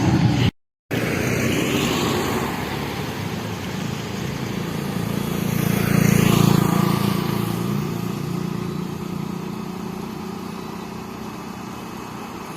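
A motor vehicle's engine passing close by, growing louder to a peak about halfway through and then slowly fading away.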